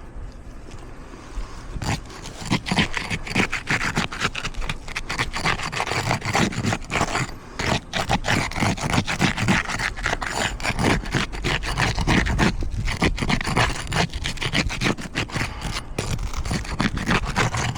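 A metal roof snake being worked under asphalt shingles in rapid, repeated scraping strokes, starting about two seconds in, breaking the shingles' seal. The tool is rougher on the shingles than a flat bar.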